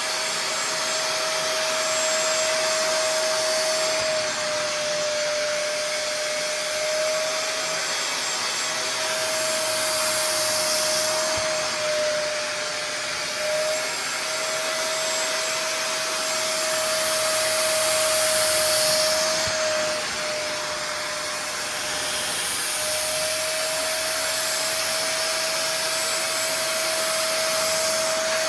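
Bissell wet carpet and upholstery cleaner running, its motor giving a steady whine under a suction hiss. The hiss grows louder and falls back every few seconds as the tool is worked over the fabric.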